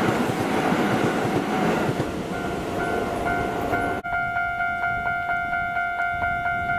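A commuter electric train passing close by, with wheel and running noise on the rails. About four seconds in this cuts to a railway level crossing warning bell ringing steadily, a two-tone electronic ding at about three strokes a second.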